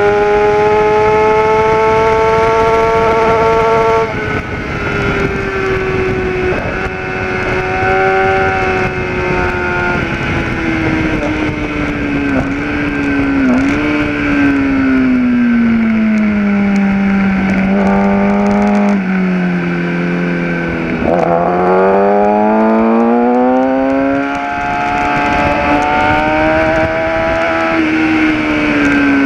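Kawasaki ZX-10R inline-four sportbike engine heard onboard at speed, over wind rush. It runs high and steady, drops off about four seconds in and falls slowly as the bike slows, then rises steeply as it accelerates again from about twenty seconds in, and falls once more near the end.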